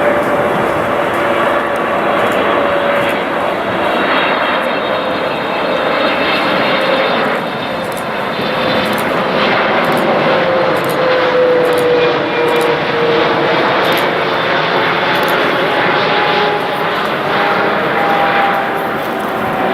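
A jet airliner's engines run loudly as it passes close by, a steady noise with a faint whine that slowly falls in pitch.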